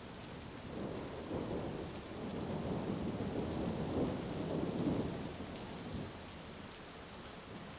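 Heavy rain falling steadily, with a roll of thunder that swells about a second in, peaks around four to five seconds and dies away by about six seconds.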